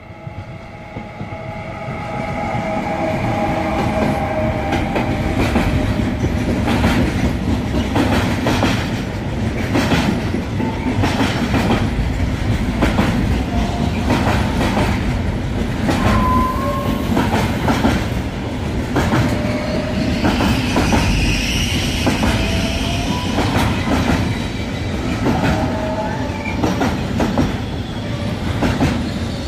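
Electric-hauled intermodal freight train with pocket wagons carrying lorry trailers passing close by. It swells in over the first few seconds as the locomotive comes up, then holds as a steady rumble while the wagons' wheels clatter over the rail joints, with brief wheel squeals now and then.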